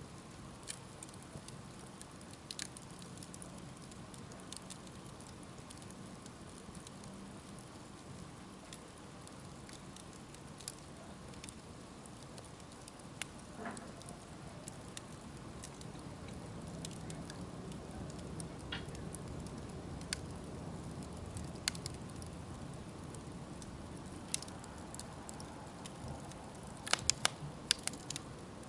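Wood fire burning with a steady low rush and scattered sharp crackles and pops, with a quick run of pops near the end.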